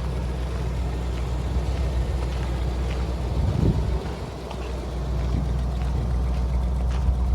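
Gas engine of a 1995 Ford F-250 pickup idling steadily, a low, even hum with a brief louder moment a little past the middle.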